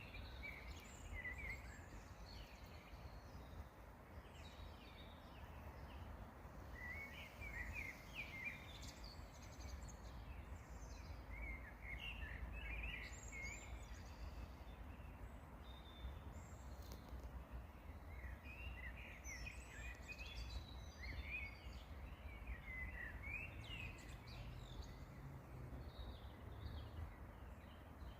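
Birds singing in short, twittering phrases every few seconds, over a steady low rumble.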